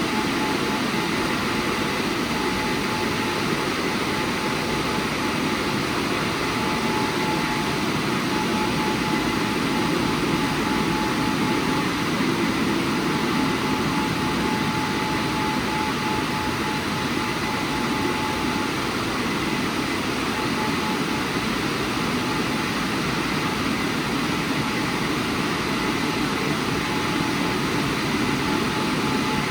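WashTec SoftCare² Pro rollover car wash's drying blowers running steadily, a constant rush of air with a thin steady whine.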